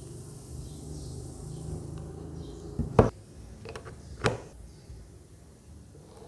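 Handling of a small plastic USB mist humidifier: a few sharp clicks and knocks, the loudest about three seconds in and another a little over a second later, over a low steady hum.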